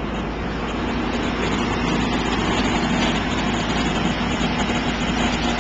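Fire engine's engine running steadily, a constant low hum under a broad rushing noise, growing slightly louder about a second and a half in.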